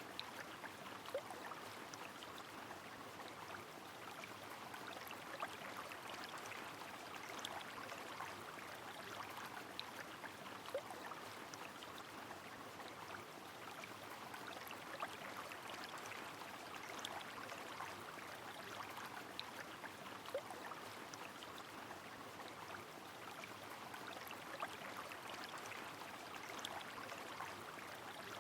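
Rain-and-river ambience: a steady rush of flowing river water with rain, and scattered sharp drip-like ticks now and then.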